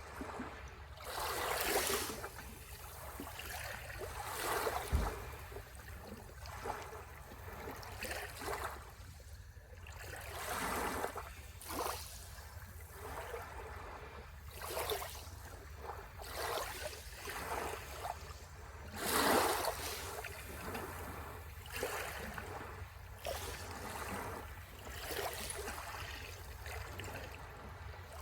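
Sea waves washing in, the noisy rush swelling and fading every few seconds, with the biggest surges about 2 and 19 seconds in. A steady low rumble runs underneath.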